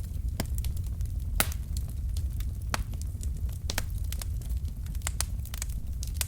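Wood fire burning in a fireplace: irregular sharp crackles and pops from the burning logs, several a second, over a steady low rumble of the flames, with one louder pop about one and a half seconds in.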